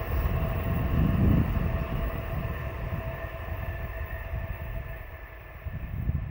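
N700A Shinkansen train passing on an elevated track at reduced speed: a steady rumble with a faint whine, loudest about a second in and then fading as it moves off.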